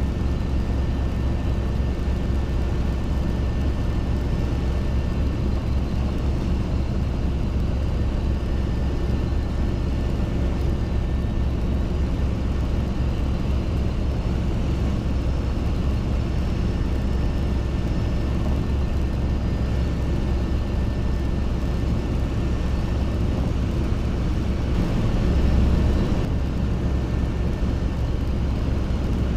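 Robinson R22 helicopter in flight: a steady, continuous drone of piston engine and rotors. It swells briefly near the end.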